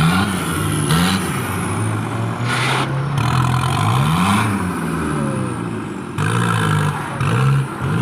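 Off-road 4x4 engine revving up and down over and over, its pitch rising and falling every second or two, with short bursts of rushing noise in between.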